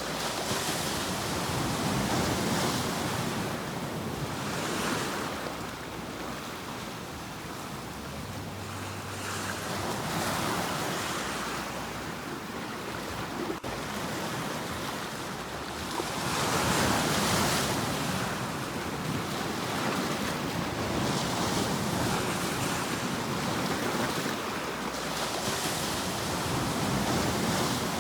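Sea waves breaking and washing onto a shore. The hiss of the surf swells and ebbs in irregular surges a few seconds apart, with the biggest about five and seventeen seconds in.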